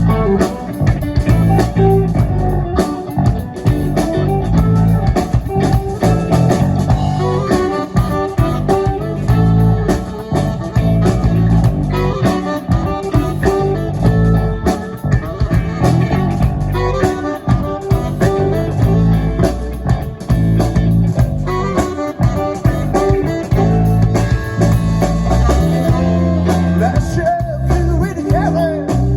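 Live rock band playing a song: electric guitars, bass guitar and drum kit, with a steady beat.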